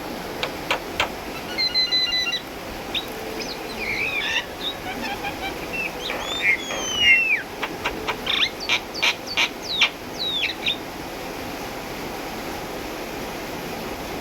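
Javan myna calling: a run of sharp clicks, chattering notes and whistles with some falling glides, which stops about three-quarters of the way through, leaving a steady background hiss.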